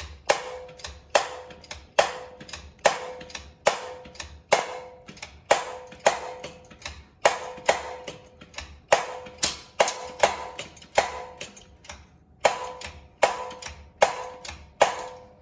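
Honda CT125 Hunter Cub's shift pedal being worked again and again, each shift giving a sharp metallic click with a short ringing tone, a little under one a second. This is the metallic noise after gear changes that appears once the engine is warm, a sign that the clutch needs adjusting.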